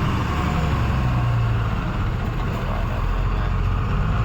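Truck engine running steadily with a low hum that drops slightly in pitch about a second in.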